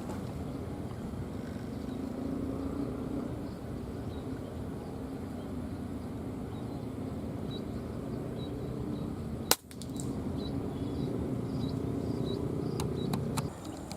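A single sharp air rifle shot about two-thirds of the way through, over a steady outdoor background hiss, with faint high chirps around it and a few light clicks near the end.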